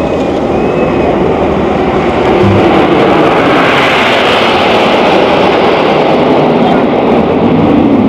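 Red Arrows BAE Hawk T1 jets flying past in formation: a loud, steady jet roar that builds over the first few seconds and peaks with a hissing rush about halfway through as they pass.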